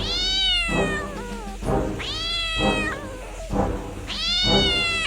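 A domestic cat meowing in three long, drawn-out calls about two seconds apart, each sliding down in pitch, over background music with a steady beat.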